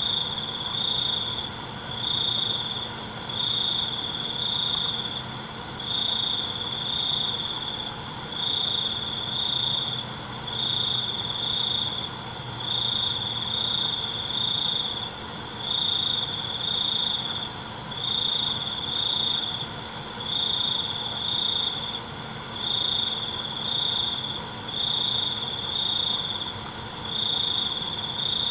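Night-time crickets chirping: a loud pulsed chirp repeating about once a second, over other insects' steady high-pitched trilling.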